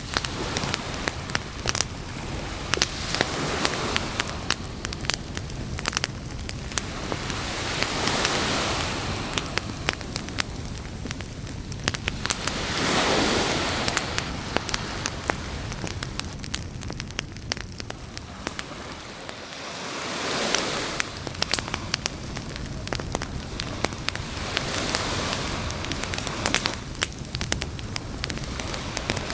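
Wood campfire crackling, with frequent sharp pops and snaps, over a hiss of surf that swells and fades every few seconds as waves wash in on the beach.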